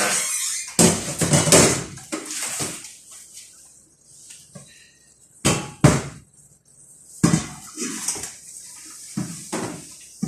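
Pots, pans and utensils clattering and knocking in a kitchen: an irregular run of clanks, with two sharp knocks about halfway through.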